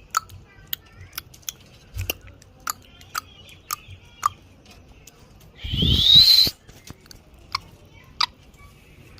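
Green parrot making a run of short, sharp clicks about twice a second, with one loud, harsh squawk about six seconds in that rises in pitch.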